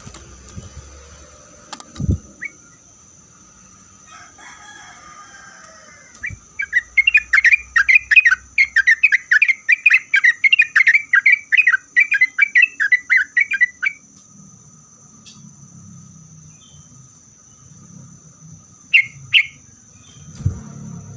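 Yellow-vented bulbul (trucuk) singing a fast, unbroken run of notes, about four a second, lasting around eight seconds from roughly six seconds in, then two short notes near the end.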